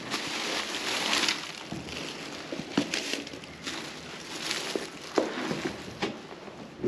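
Footsteps crunching on snow and ice, roughly one step a second, with sharper crackles on some steps.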